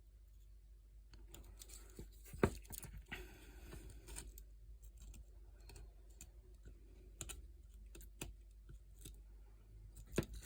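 Swiss Army knife blade cutting basswood in short, irregular strokes: faint scraping slices and small clicks, with one sharper click about two and a half seconds in.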